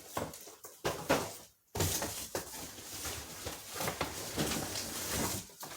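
Packaging being handled as a box is opened: a few short scuffs, then a dense crinkling and crackling from about two seconds in until just before the end.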